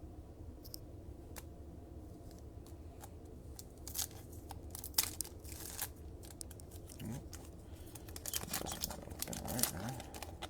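Trading card pack wrapper being torn open and crinkled, with scattered clicks and rustles as the cards are handled.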